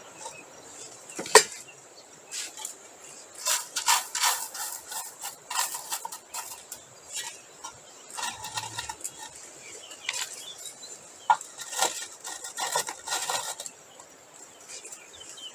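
Crushed stone clattering and clicking as it is shifted by hand and the burner is raised in the fireplace box: scattered runs of sharp stone-on-stone clicks with short pauses between.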